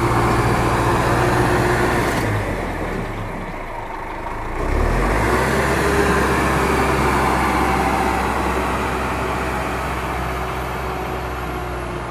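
A heavy vehicle engine runs steadily, its sound changing abruptly about two seconds in and again near five seconds.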